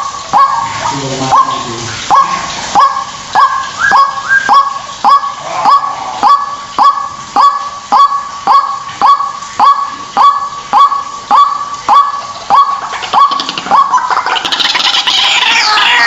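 White-breasted waterhen calling: a honking note repeated about twice a second. About fourteen seconds in it gives way to a denser, higher tangle of overlapping calls.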